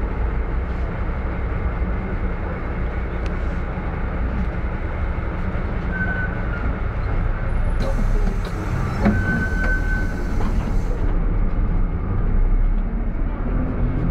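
Minibus traffic with a steady low engine rumble. A short high-pitched brake-pad whistle comes about six seconds in, and a longer one about nine seconds in, during a hiss that lasts about three seconds.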